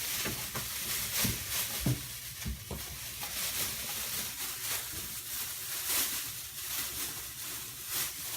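Fabric and foam rustling and rubbing, with scattered soft knocks, as a seat cushion's cloth cover is worked over a block of foam.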